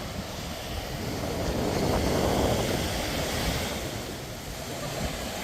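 Sea surf washing on a sandy beach: a wave swells up about two seconds in and ebbs away, over a steady rush of surf and some wind on the microphone.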